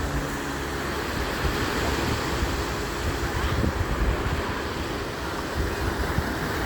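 Surf washing on a beach, with wind rumbling on the microphone.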